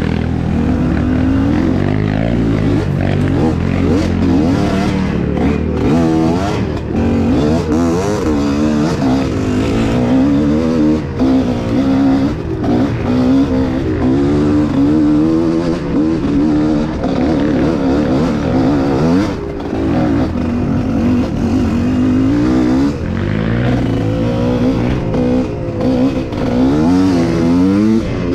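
Off-road trail motorcycle engine running under load, its pitch rising and falling over and over as the throttle is opened and closed.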